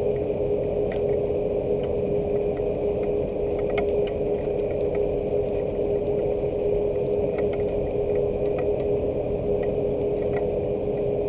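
Steady rain with a constant low rushing hum and an unchanging pitched drone from a machine, and scattered light ticks of drops throughout.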